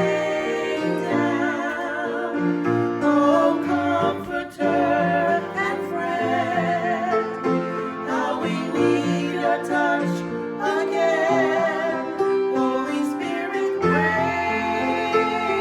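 Worship song: a singer's voice, with vibrato on held notes, over instrumental accompaniment.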